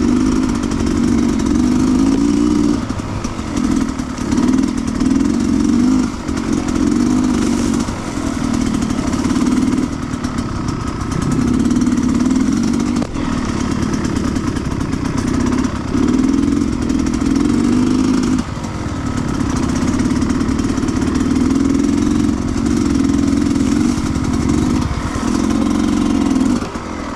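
Sherco 300 two-stroke enduro motorcycle engine being ridden off-road, the throttle opened and closed over and over so the engine note rises and falls in bursts of a second or two.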